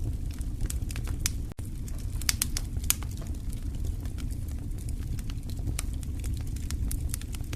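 Wood fire crackling in a fireplace: irregular sharp pops and snaps over a steady low rumble of burning logs, with a split-second gap about one and a half seconds in.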